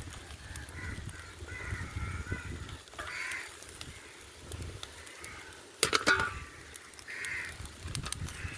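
A few short, harsh bird calls, with a burst of sharp clicks or knocks about six seconds in.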